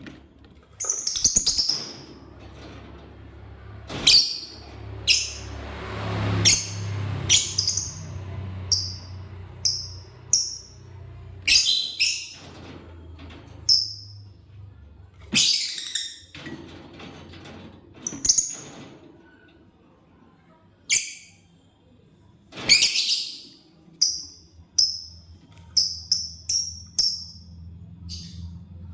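Lovebirds chirping: short, sharp, high-pitched chirps every second or so, some in quick runs of three or four, over a faint low steady hum.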